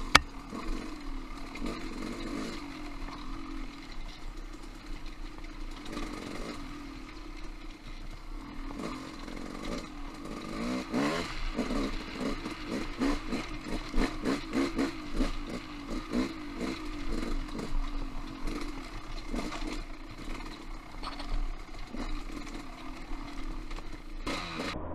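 Trail motorcycle engine running under changing throttle as it climbs over rocky singletrack, its pitch rising and falling, with frequent clatter and knocks from rocks and the bike's chassis.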